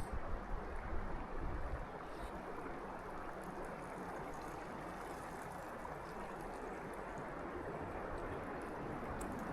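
Steady rushing of water running from a partly frozen waterfall, with low wind buffeting on the microphone in the first two seconds.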